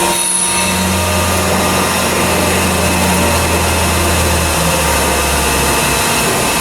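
Chevalier 16 x 28 surface grinder running, a steady machine noise with a low hum that holds at an even level.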